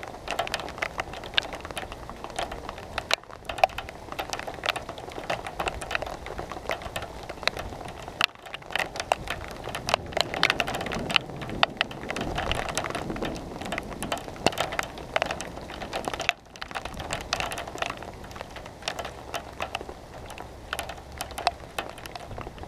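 Rain falling, with many irregular sharp taps of drops striking close by over a steady hiss of rainfall.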